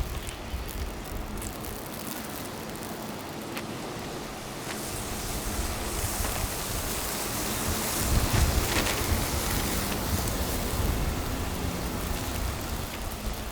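City street ambience: a vehicle's low rumble swells about halfway through and then stays up, over a steady hiss of wind on the microphone.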